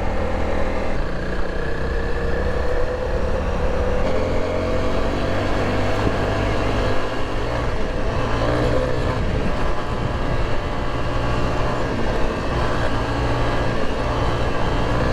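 Motorcycle riding on a dirt road: the engine runs steadily under way, its pitch climbing slowly over the first few seconds, over a constant road and wind rumble.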